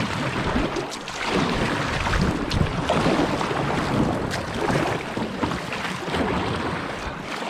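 Rushing, splashing river water around a paddled boat under way, with wind buffeting the microphone.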